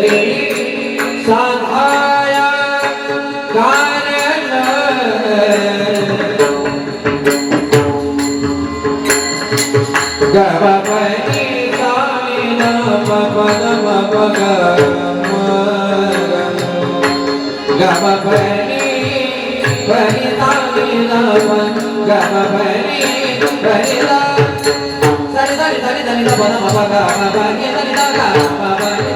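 Devotional singing: a man's voice singing long, sliding, ornamented phrases over steady pakhawaj drum strokes.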